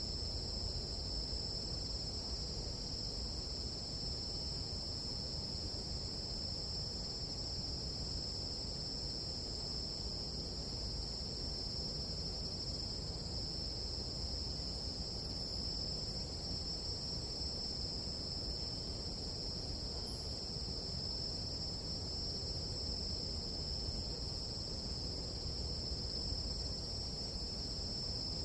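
Nighttime chorus of tropical insects, an unbroken high-pitched trilling drone that holds steady throughout, over a low, even rushing noise.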